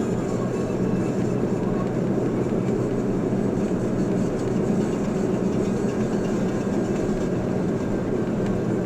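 Steady road and engine noise of a moving car heard from inside the cabin: an even, low rumble of tyres and engine with no change throughout.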